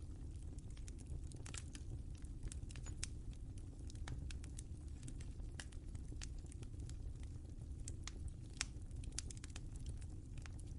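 Wood fire crackling in a fireplace: irregular sharp pops and snaps over a steady low rumble of the flames, with a louder pop near the end.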